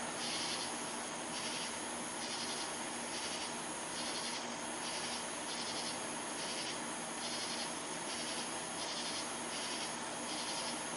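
Insects chirping in a steady rhythm, about two high-pitched pulses a second, over a faint steady hum.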